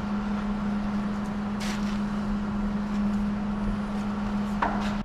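An engine running steadily with a constant low hum and a couple of faint clicks.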